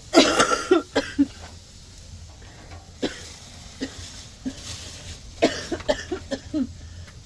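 A woman with a cold coughing: a harsh bout of coughs right at the start, then a few single coughs, and another run of short coughs about five and a half seconds in.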